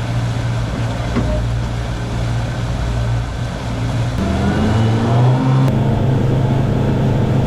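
Boat engine running steadily under way; about four seconds in the engine note rises as it is throttled up, then holds at the higher pitch.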